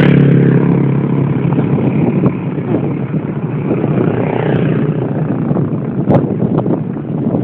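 Steady rushing noise of a mountain bike being ridden on a trail, wind on the microphone mixed with tyre and bike rattle, with a humming tone that fades in the first second or two and a few sharp knocks near the end.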